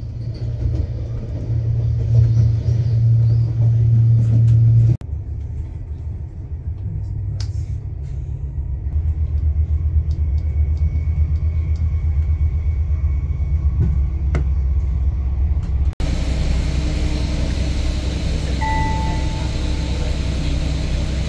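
Steady low rumble of a train in motion heard from inside the carriage, cutting abruptly to another stretch about five seconds in. About sixteen seconds in it changes to a bus running, heard from inside the cabin, with more hiss and a brief beep a few seconds later.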